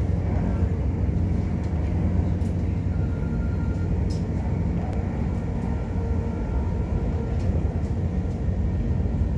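Passenger train running at speed, heard from inside the carriage: a steady low rumble of wheels on rail, with a few faint clicks.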